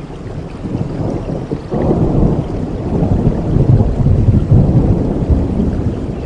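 Rain falling, with a deep low rumble that swells about two seconds in and keeps rolling.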